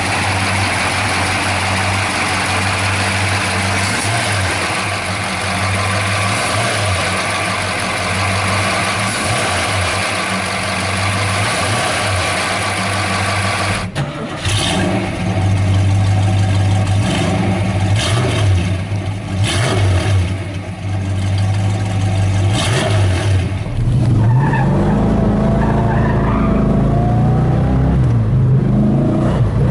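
A muscle car's V8 engine running, across several clips. It is steady at first. About halfway through it changes to a series of sharp throttle blips. Near the end it settles into a deeper, steady idle.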